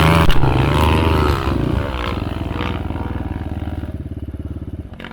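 Enduro dirt bike engine revving hard, loudest and wavering in pitch for the first couple of seconds, then running steadier and slowly fading.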